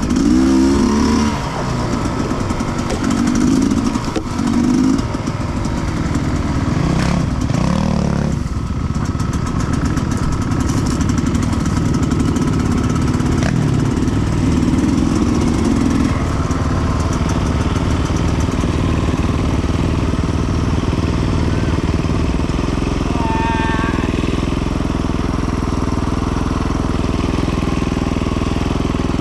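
Sherco 300cc two-stroke enduro bike engine, revving up and down with the throttle in the first several seconds, then running more steadily and settling to a steady lower note past the two-thirds mark.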